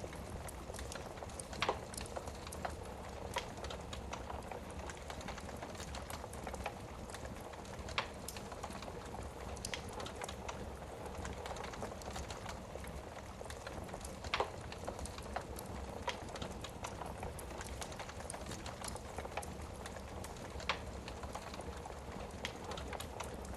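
Wood fire crackling in a fireplace: a steady hiss of small crackles with sharper pops every few seconds, the loudest about two seconds in, at eight seconds and at fourteen seconds.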